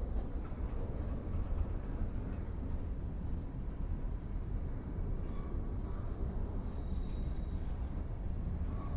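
Train rumbling steadily, a deep low rumble with a haze of rolling noise above it.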